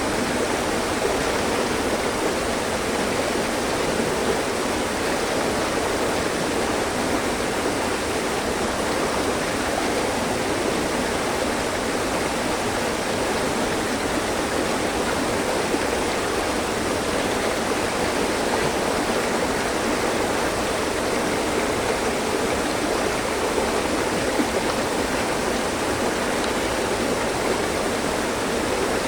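Mountain stream: water rushing and splashing steadily over rocks, an even, continuous rush.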